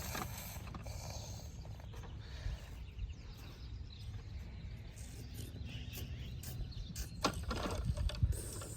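Outdoor background noise: a steady low rumble with scattered light scrapes and clicks, more of them near the end.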